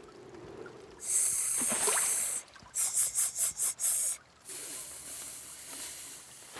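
Cartoon sound effects of hissing sprays: a long hiss about a second in, then a quick run of about six short spurts, then a steadier, quieter hiss.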